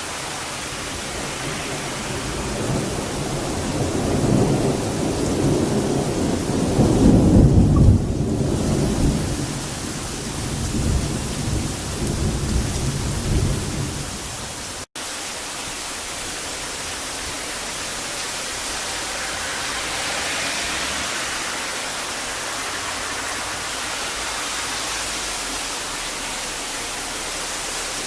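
A long roll of thunder over steady rain: the rumble builds for several seconds, is loudest about seven to eight seconds in, and dies away about halfway through. After a brief dropout, only the even hiss of rain goes on.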